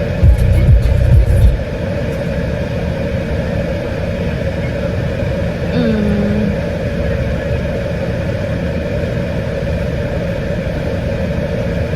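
Steady car cabin noise of engine and road while driving, with a loud low boom lasting about a second near the start and a brief pitched whine about halfway through.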